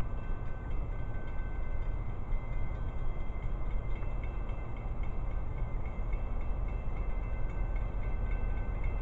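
Train running past, a steady rumble with faint thin high tones above it.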